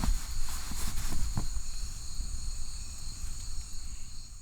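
Night-time forest insect chorus: steady high-pitched trilling, with a low rumble and a few soft knocks in the first second and a half. It fades out near the end.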